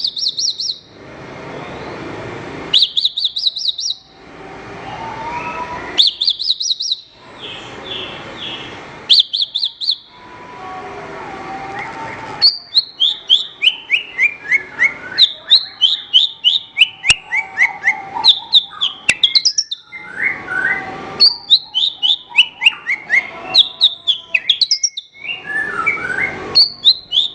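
Javan bush lark (branjangan) singing. First come short, rapid high trills about every three seconds. From about halfway, it gives a continuous song of quick chirps in runs that fall in pitch, repeated over and over.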